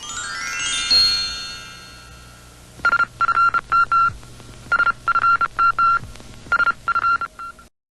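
Short electronic closing jingle: a rising synthesizer sweep, then a rhythmic string of short electronic beeps on one pitch that stops abruptly near the end.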